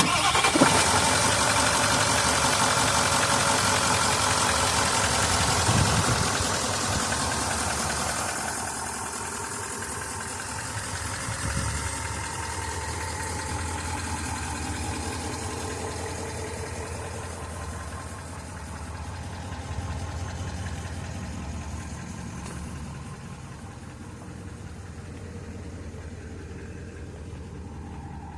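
Nissan Titan XD's Cummins 5.0-litre V8 turbodiesel firing up from a cold start. It runs loudly for about six seconds, then settles to a quieter steady idle.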